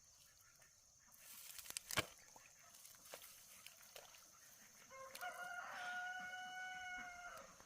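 A rooster crowing once in the distance, one long held call in the last few seconds. Before it, a brief rustle ends in a sharp click about two seconds in.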